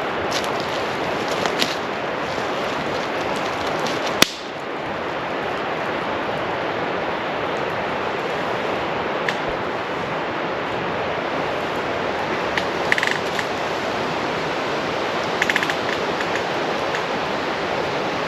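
Steady wind rushing through the forest, with a few small pops and one loud sharp crack about four seconds in.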